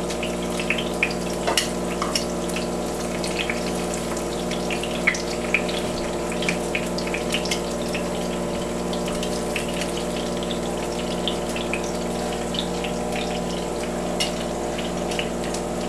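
Thin sweet potato slices frying in hot oil in a skillet, a steady sizzle full of small crackles and pops, with a steady hum underneath.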